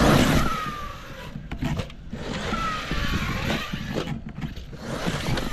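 Electric motor of an ARRMA Kraton EXB V2 RC monster truck whining under throttle, with two falling whines, near the start and about halfway through, over rough running noise and scattered clicks.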